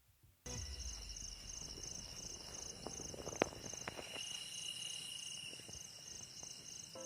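Night insects chirping: a high pulsing chirp repeating about twice a second over a steady high-pitched trill, starting suddenly about half a second in, with a few sharp clicks a little past the middle.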